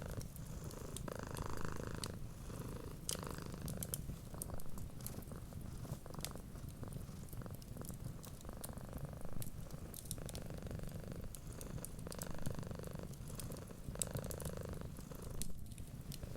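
Domestic cat purring steadily, swelling and fading with each breath every second or two, over the scattered small pops and crackles of a wood fire.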